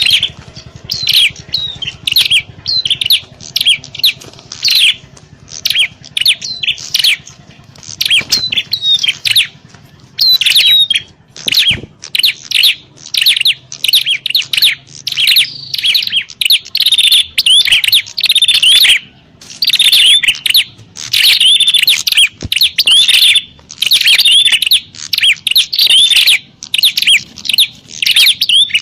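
Prenjak (prinia) birds calling in a noisy 'fighting' bout: a dense, rapid run of sharp chirps with hardly a pause, denser and louder from about ten seconds in. This is a lure call for attracting wild prenjak. A faint low hum lies under the first half.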